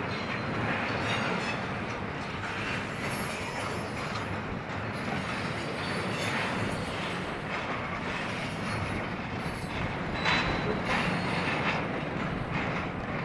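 Union Pacific intermodal freight train rolling past: a steady rumble of wheels on rail with repeated knocks, and a brief high wheel squeal about ten seconds in.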